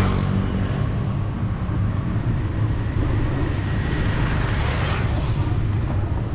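Street traffic: motor vehicle engines running with a steady low hum under a haze of road noise, swelling from about three seconds in and easing off near five seconds.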